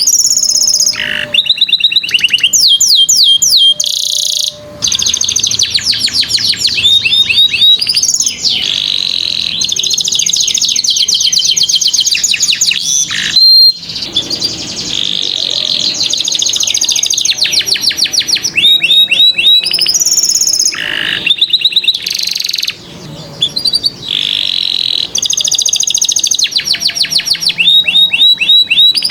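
Domestic canary singing a loud, continuous song of fast trills: runs of rapidly repeated high notes, each run switching to a new note pattern every second or two, with a few sweeping whistles between.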